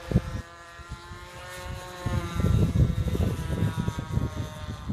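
Radio-controlled model airplane's motor and propeller giving a steady whine for about two seconds, then strong wind buffeting the microphone with a low rumble.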